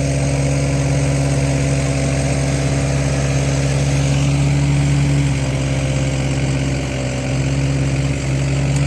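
A motor running steadily under load, a loud even drone with a slight drop in pitch about five seconds in.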